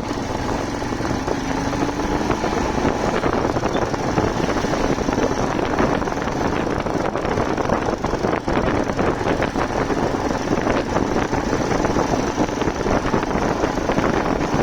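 Motorcycle on the move: engine running with a steady rush of wind noise, getting a little louder in the first couple of seconds, then holding steady.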